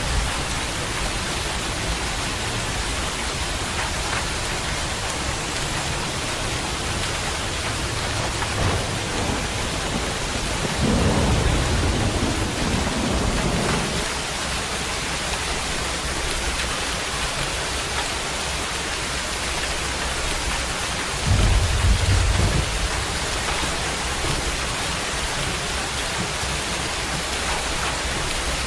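Steady rain falling, an even hiss, with two low rumbles swelling up about eleven seconds in and again about twenty-one seconds in.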